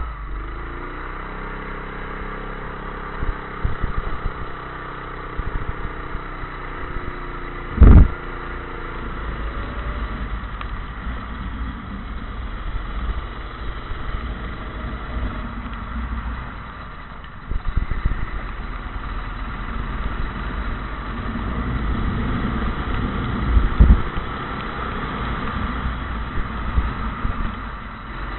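Kart engine running, its pitch rising and falling with the throttle, over steady noise. There is a very loud knock about eight seconds in and another near the end.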